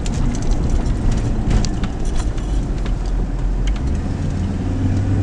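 Car driving, heard from inside the cabin: a steady low rumble of engine and road noise with a few light clicks and rattles. The low engine hum grows louder near the end.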